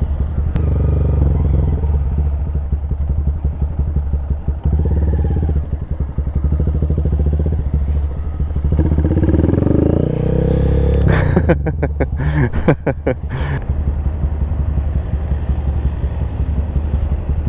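A small single-cylinder motorcycle engine, a 2025 Honda Grom fitted with a loop exhaust, running at low speed during a slow stop and U-turn. The revs rise briefly about nine seconds in, followed by a quick run of sharp clicks between about eleven and thirteen seconds.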